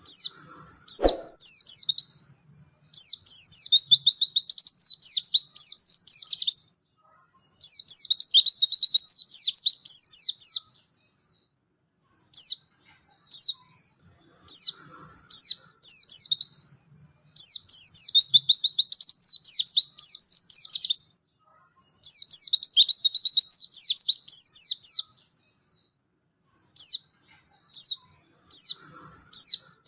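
A white-eye (pleci) singing long, rapid, high-pitched warbling phrases of a few seconds each, separated by short pauses.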